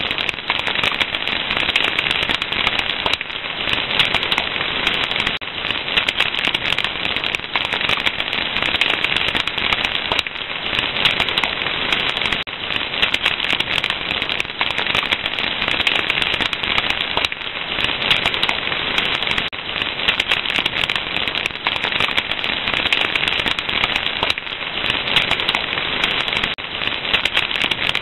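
Fire crackling steadily, with a dense stream of small pops and snaps.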